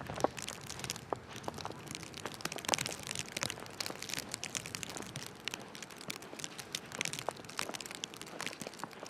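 Crunching of footsteps on snow, an irregular crackle with scattered sharp clicks.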